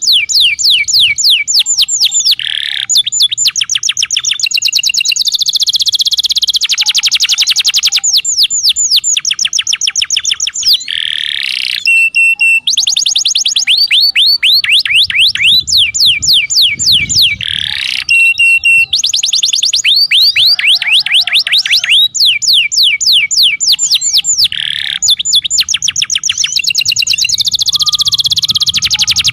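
Domestic canary singing: long, fast trills of repeated downward-sweeping notes, one roll after another with short breaks between them.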